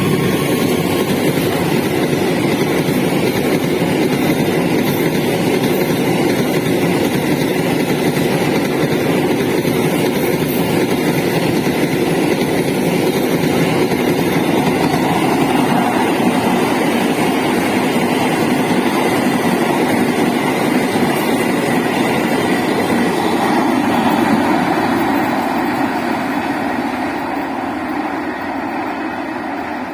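A train rolling past close by, a steady rumble of wheels on the rails that starts to die away in the last few seconds.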